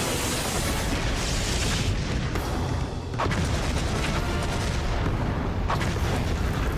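Sound-effect explosions over music: a big blast at the start with a long rumbling tail, then two more sharp blasts, about three seconds in and near six seconds.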